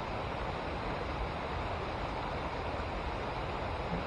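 Steady rush of river water pouring over or below a dam, an even unbroken hiss.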